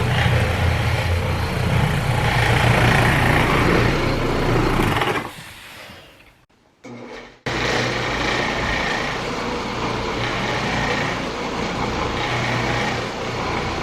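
Carpet cleaning machine running steadily, with a low hum and a hiss that swells and fades every second or two. About five seconds in it dies away to near silence for a couple of seconds, then runs again.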